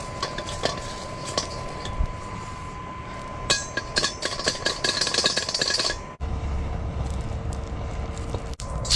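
Metal cookware and utensils clinking and knocking in quick, irregular taps, densest around the middle, as cured ribs are handled in a pot for blanching. After a sudden cut, a steady low hum takes over.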